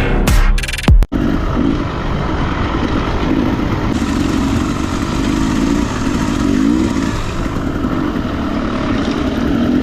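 Music ends abruptly about a second in, then a Beta 300RR two-stroke dirt bike engine runs under way, its pitch rising and falling with the throttle.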